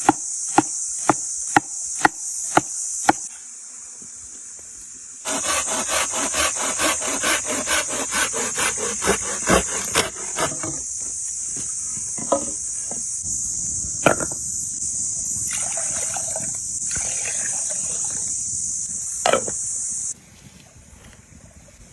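Knife chopping on a wooden board: evenly spaced strokes about two a second, a pause, then a fast run of rapid chopping, then a few scattered knocks. A steady high-pitched insect buzz runs underneath and cuts off suddenly near the end.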